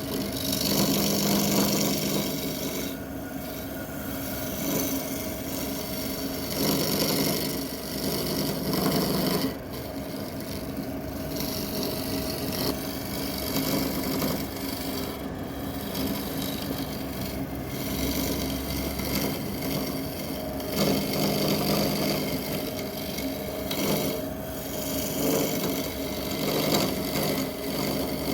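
Wood lathe running with a turning tool cutting the spinning wood, a continuous rasping scrape over the machine's steady hum, swelling and easing every few seconds.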